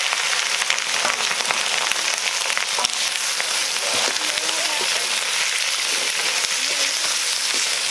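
Chicken pieces frying in hot oil in a metal wok: a steady sizzle with small crackles as the meat is stirred with a wooden spatula.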